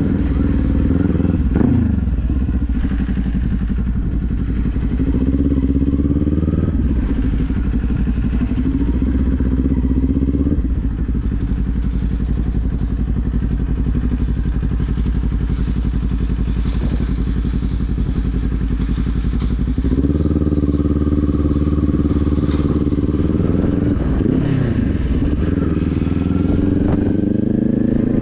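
Motorcycle engine pulling through the gears: the engine note climbs and drops sharply at an upshift about two seconds in and again around six seconds, holds fairly steady through the middle, then climbs again with another upshift near the end.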